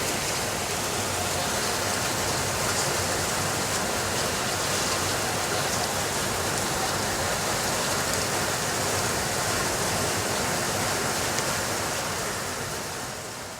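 Steady rainfall, an even hiss with faint patter, fading out near the end.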